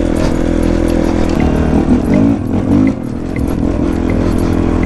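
Honda CRF450 dirt bike's single-cylinder four-stroke engine running while being ridden, its revs wavering up and down around two seconds in.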